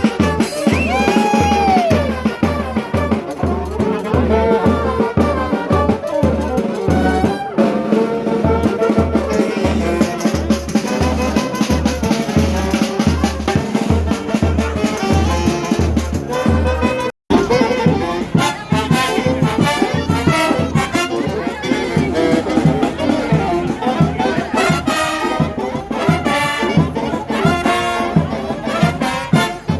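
Brass band with trumpets and trombones playing lively carnival music over drums, with a steady bass-drum beat. The music cuts out for a split second about halfway through, then carries on.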